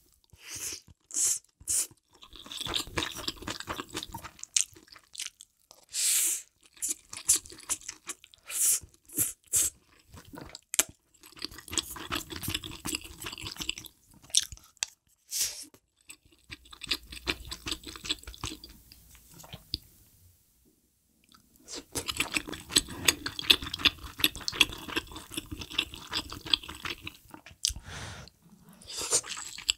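Close-miked eating of spicy hot pot: wet chewing and crunching of noodles, tofu and other ingredients, with short sharp slurps in the first third. Brief near-silent pause about two-thirds through, then a dense run of quick chewing.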